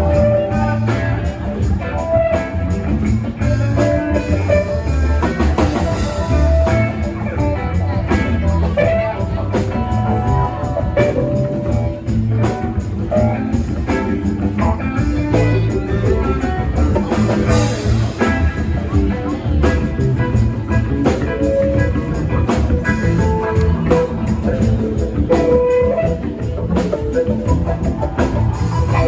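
Live rock band playing an instrumental passage: electric guitar lines over a steady drum kit and bass.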